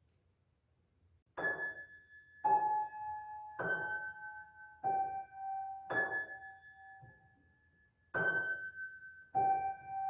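Piano playing single high notes, starting about a second and a half in. The notes come slowly, about one a second, alternating between two notes an octave apart, each left to ring, with a short pause near the end.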